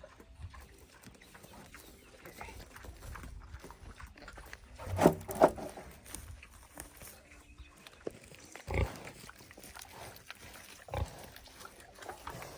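Sow grunting a few times: two short, loud grunts close together about five seconds in, then single grunts near nine and eleven seconds.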